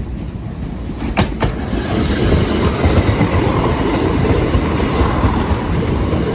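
Train running past over the level crossing, with two sharp wheel clicks about a second in, then a steady loud rumble of wheels on rail.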